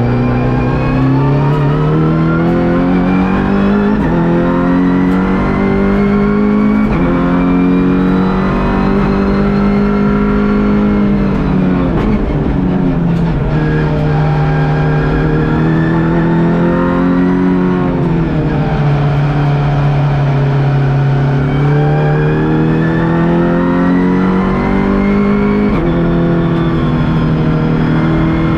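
Volkswagen Golf GTI TCR race car's turbocharged four-cylinder engine, heard from inside the cabin, running hard on a hot lap. The pitch climbs in steps as the sequential gearbox shifts up, drops sharply with downshifts under braking about twelve seconds in, holds steady, then climbs through the gears again.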